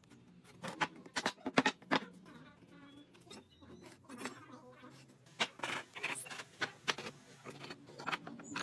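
Irregular light knocks and clicks of wooden pieces and hand tools being handled at the workbench, a quick run of them about a second in and more spread out later.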